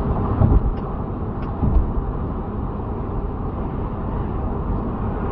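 Steady road and engine noise of a moving vehicle, picked up by a dashcam, with brief low thumps about half a second and nearly two seconds in.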